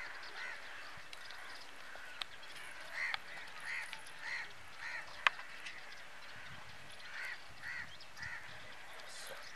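A bird calling in short repeated calls, in runs of two to four about half a second apart. Two sharp clicks fall among them, one about two seconds in and a louder one about five seconds in.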